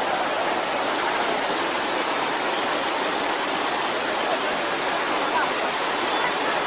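Steady rush of fast-flowing floodwater in a swollen river.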